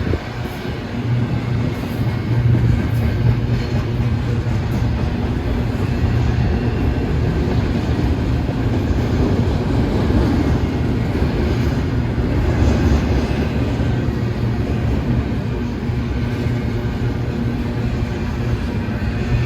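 Freight train rolling past: a steady, continuous rumble with a low hum.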